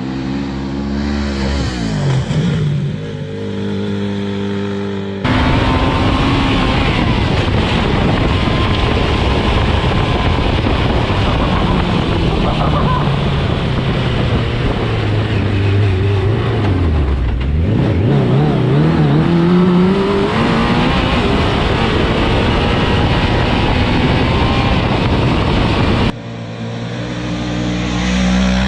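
Custom trophy truck's engine running hard off-road, its pitch falling and then climbing as the throttle comes off and back on, over a loud rush of noise. It cuts in abruptly about five seconds in and cuts off near the end, with steadier stepped tones, like electronic music, on either side.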